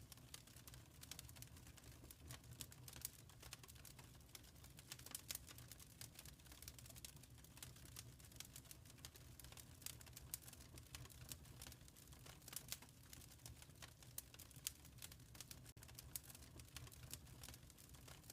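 Faint wood fire crackling: many small, irregular pops and snaps over a low, steady rumble of the flames.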